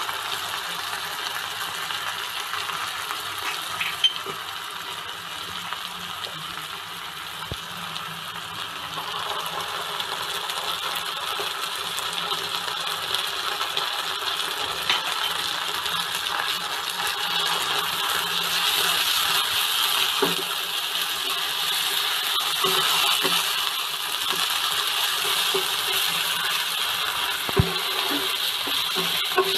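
Onions, capsicum and spice pastes frying in oil in a nonstick wok, a steady sizzle that swells somewhat past the middle. A spatula now and then knocks and scrapes against the pan, mostly in the second half.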